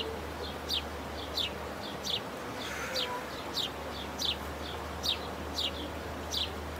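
A bird calling over and over: short, high, falling chirps, a strong one about every three-quarters of a second with a fainter one in between, over a steady background hiss.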